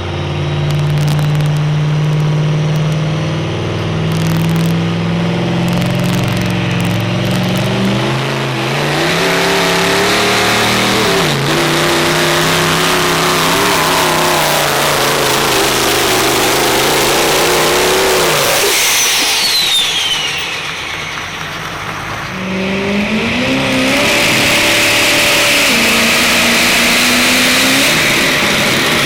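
Diesel pulling truck's engine running hard under load, its revs climbing slowly for most of the first half. The engine drops off about two-thirds of the way in, with a high whistle falling in pitch, then revs up again near the end.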